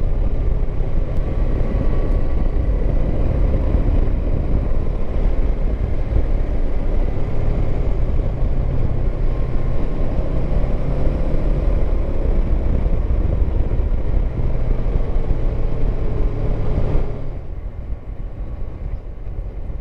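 Honda CB500X 471 cc parallel-twin motorcycle engine running at steady cruising speed, with road and wind noise, inside a long rough-rock road tunnel. The rumble drops noticeably quieter near the end.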